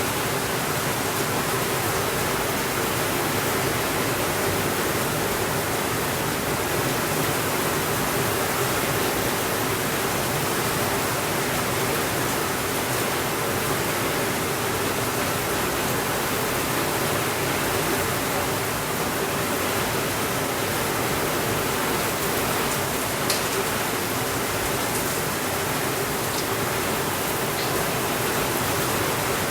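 Steady rainfall, an even dense hiss, with one sharp click about two-thirds of the way through.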